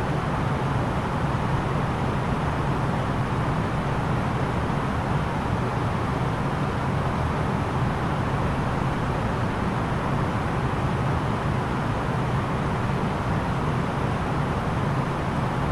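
Steady cabin noise of an Airbus A330-900neo airliner in descent: an even rush of airflow and engine noise over a low hum.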